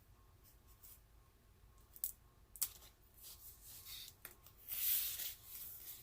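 Rustling and crinkling of the packaging around a diamond-painting canvas as it is pulled free of its tape, with a couple of sharp clicks about two seconds in and the loudest rustle about five seconds in.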